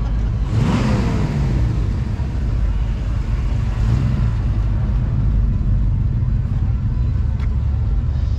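Car engine rumbling as a vehicle drives by, its pitch falling about a second in.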